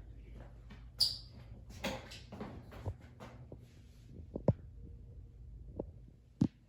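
Irregular sharp clicks and knocks, roughly one a second, over faint handling rustle and a low rumble, with a short hissy scrape about a second in: footsteps on a hard tile floor in a small room.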